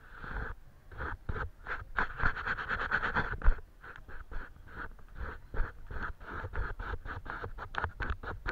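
Paintbrush strokes scratching across paper, quick and irregular at several strokes a second, densest in the first three seconds.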